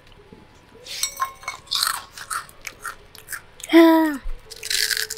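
Someone chewing crisp deep-fried rava (semolina) sandige close to the microphone: a run of dry crunches, with a brief voiced hum about four seconds in. The crunch is the sign that the sandige has dried and fried properly crisp.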